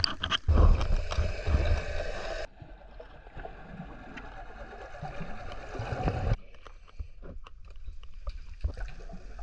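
Sea water splashing and sloshing around the microphone as a swimmer goes back into the water. It is loudest and rumbling in the first couple of seconds, then changes abruptly twice: first to a quieter washing, then to scattered faint clicks.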